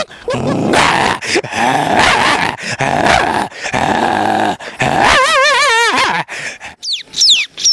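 A man imitating animals with his voice: a long rough dog growl, then a quavering whistle and a few falling whistles near the end.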